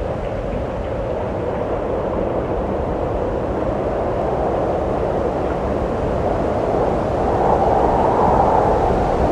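Steady wind blowing, a strong hollow rush that swells a little about two-thirds of the way in.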